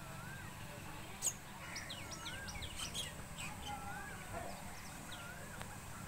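Birds singing: one repeats a short wavy up-and-down whistle about every second and a half, while others give quick high chirps, busiest in the middle, with one sharp click a little over a second in. A steady low hum runs underneath.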